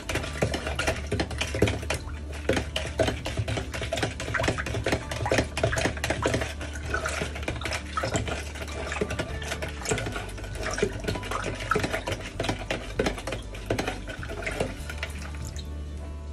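Long metal spoon stirring passion fruit juice in a plastic pitcher, clinking and scraping against the sides with a liquid slosh, to mix in the added sugar and water. The stirring stops near the end.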